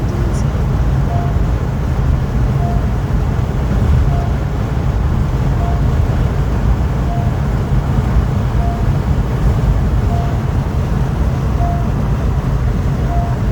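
Inside a Honda Elevate at speed: steady engine and tyre rumble fills the cabin, with a short beep repeating about every second and a half.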